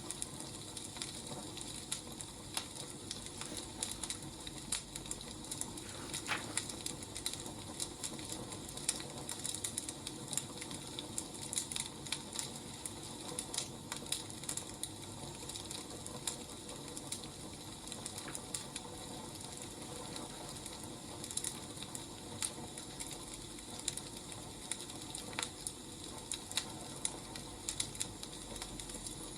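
Wood fire burning: a steady hiss with frequent, irregular crackles and pops.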